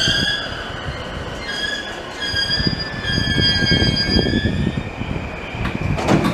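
JR E233-series electric commuter train braking to a stop at a station platform: its brakes squeal in several steady high tones over a low rumble, which fade out about five seconds in as the train halts. A short burst of noise follows near the end.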